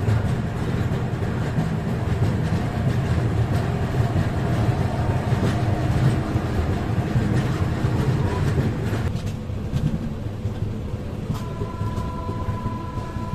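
Passenger train pulling out, heard from the open coach door: a steady low rumble of wheels on rail with scattered clicks over joints and points. Over the last couple of seconds a steady high-pitched tone joins in.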